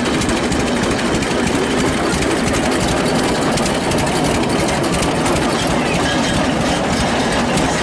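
Engine of a 1917 experimental Waterloo Boy bathtub tractor running steadily.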